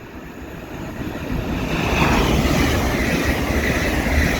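Hull Trains Class 802 passing through the station at speed. Its rushing rumble builds over the first couple of seconds and then holds loud and steady.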